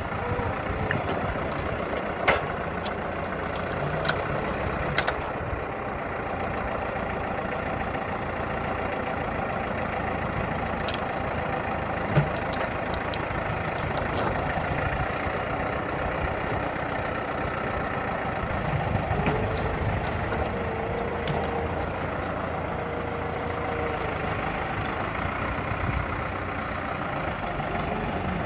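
Valmet 705 tractor's diesel engine running steadily, with its pitch rising and falling a few times, and several short sharp knocks, the loudest about twelve seconds in.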